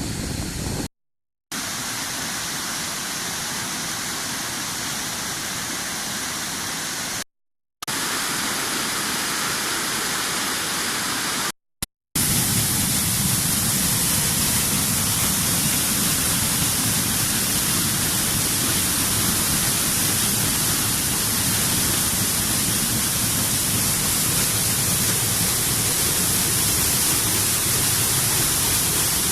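Steady rushing noise of a waterfall running heavily after cyclone rain. It is broken by three brief dropouts to silence: about a second in, near seven seconds, and near twelve seconds.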